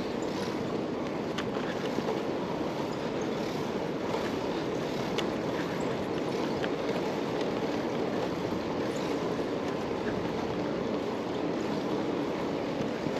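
Steady rushing wind noise on the microphone of a camera riding along on a moving bicycle, with no changes.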